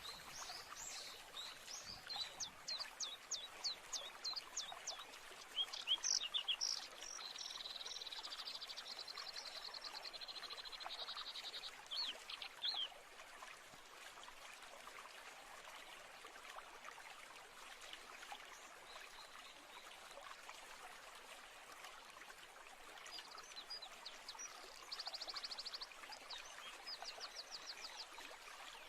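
Songbirds singing over a steady wash of running water: bursts of rapidly repeated high notes and fast trills through the first dozen seconds, then a long lull with only the water, and another trill near the end.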